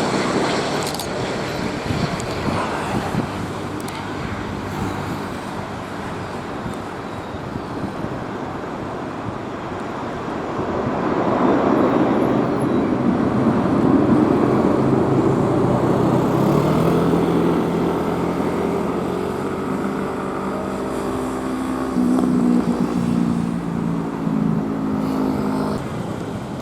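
Engine noise over a steady rumble, swelling about eleven seconds in, then turning into several pitched engine tones that fall slowly and then hold level.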